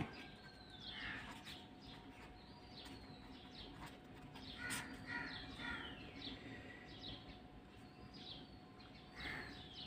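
Faint bird calls: three drawn-out whistles that fall in pitch, with short chirps between them, over a faint steady hum.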